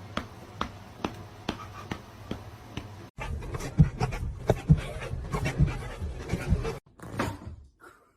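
A dog panting, with sharp clicks about twice a second, across short clips cut together twice.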